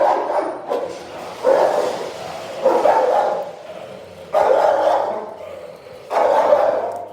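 Labrador retriever barking repeatedly, about one bark every second and a half.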